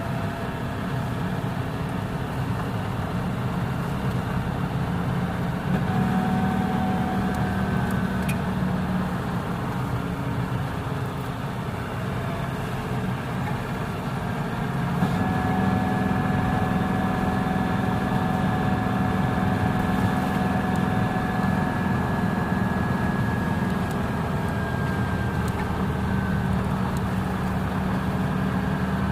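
Engine and road noise of a moving vehicle: a steady drone with a faint engine whine that gets louder about six seconds in and again about fifteen seconds in.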